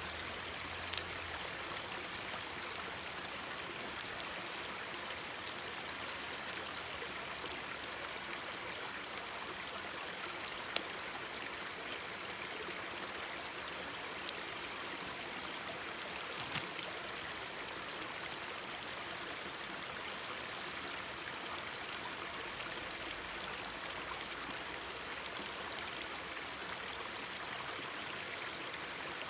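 Mountain stream babbling steadily, with a handful of sharp pops from a crackling wood campfire scattered through the first half.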